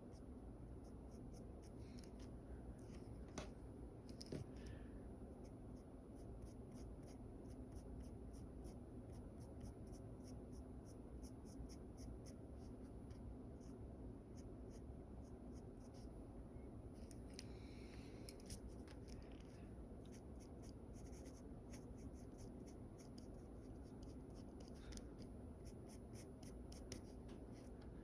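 Pencil sketching on paper: faint, quick scratchy strokes, several a second, with a denser run of scratching about two-thirds of the way through.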